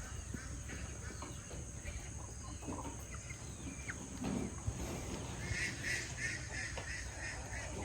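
Farm poultry calling in the background, with a quick run of short repeated calls in the second half.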